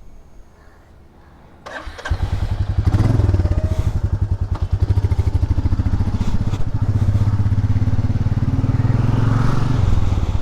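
Royal Enfield Meteor 350's single-cylinder engine running with a steady, rapid pulsing beat, coming in suddenly a little under two seconds in.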